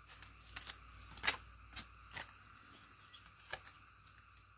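Trading cards and plastic card holders being handled: faint, sharp clicks and rustles, a cluster in the first two seconds or so and a few more later.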